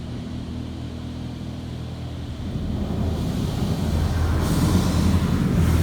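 PDQ LaserWash M5 touchless car wash running its high-pressure rinse, heard from inside the car. A steady machine hum runs throughout, and the rushing hiss of water spray on the car grows louder from about halfway as the spray moves onto it.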